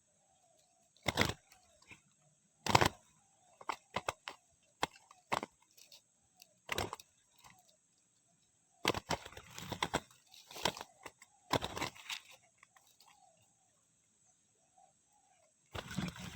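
Irregular bursts of flapping and clattering from spotted doves, about a dozen in all, with a cluster near the middle and another near the end. Between the bursts, faint wavering cooing can be heard.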